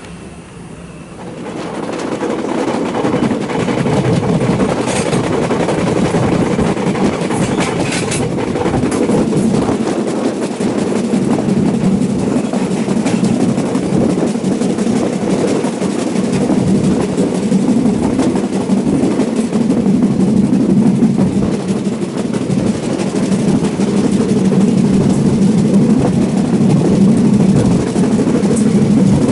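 Passenger train running at speed, heard from an open door: a steady, heavy rumble of wheels on rails that grows much louder about a second and a half in and stays loud as the train crosses a river bridge.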